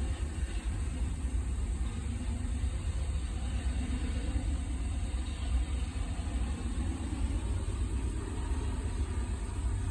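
Diesel locomotives of a Norfolk Southern freight train running, a steady low rumble.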